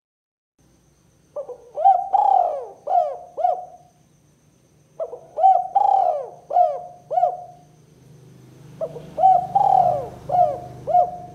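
Spotted dove cooing: three phrases of about five short coos each, each coo rising and falling, with a pause of about a second between phrases.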